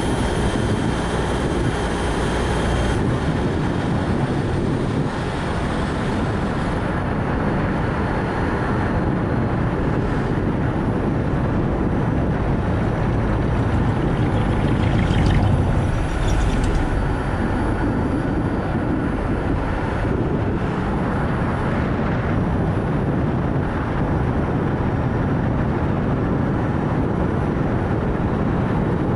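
Steady road, tyre and wind noise of a Nissan Note e-POWER driving, heaviest in the low end, with a brief louder swell about halfway through.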